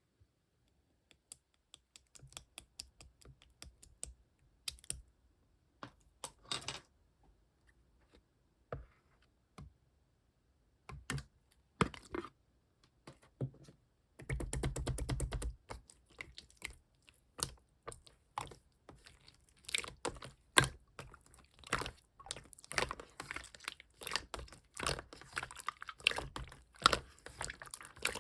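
Clear slime being pressed and worked by hand, giving sharp sticky clicks and small pops, sparse at first and coming thick and fast in the second half, with a denser crackling stretch of about a second just past the halfway point.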